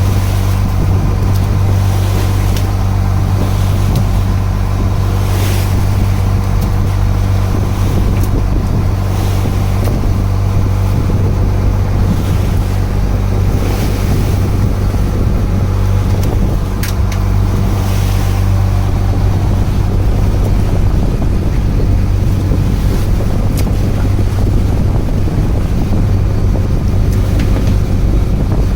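A wooden fishing boat's engine running steadily with a deep, even hum, with wind buffeting the microphone and the wash of the sea.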